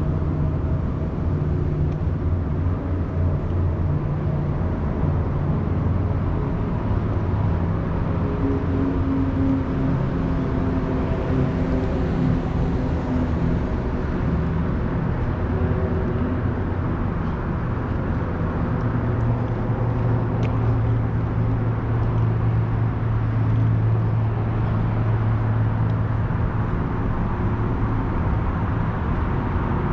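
A car being driven, with steady engine and road noise and a low hum that shifts in pitch now and then.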